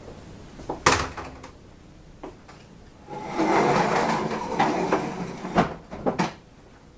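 A washed furnace filter is slid back into its slot in the furnace. A sharp knock about a second in, then a scraping slide lasting about two and a half seconds, then two sharp clacks near the end.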